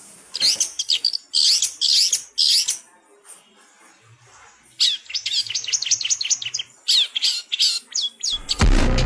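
Blue rock thrush singing: a few loud warbled phrases, a pause of about two seconds, then a quick run of short, falling whistled notes. Music comes back in near the end.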